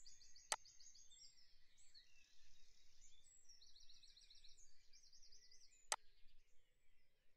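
Faint bird chirping, quick runs of repeated high notes, with two sharp clicks about five seconds apart.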